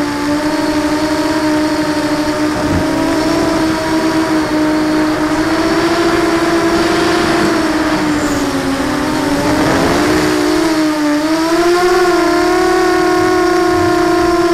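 QAV250 FPV quadcopter's motors and propellers whining steadily; the pitch wavers with throttle, dips about nine seconds in, then climbs back.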